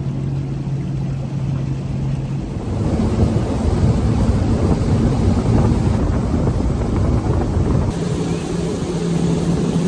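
Boat engine running under way, speeding up about three seconds in with a rush of wind and water, then easing back a little near the end.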